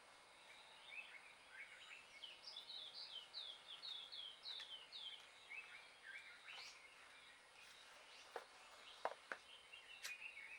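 A bird singing faintly outdoors: a quick series of short, downward-sweeping high notes, about three a second, followed later by a few sharp clicks.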